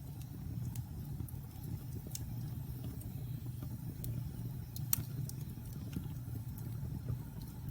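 Wood fire burning in a fireplace: a steady low rumble of the flames with scattered crackles and pops, the sharpest about five seconds in.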